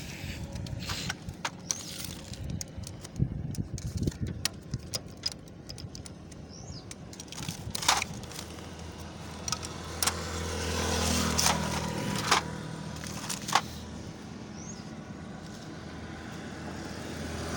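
Metal tools and parts clinking and knocking at irregular intervals during work on a 70cc motorcycle's clutch. A motor vehicle engine swells and fades about ten seconds in.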